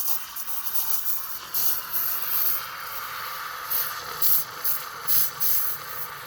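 DeLonghi ES460S espresso machine's steam wand hissing steadily while frothing milk, with several short, louder sputters over the steady hiss.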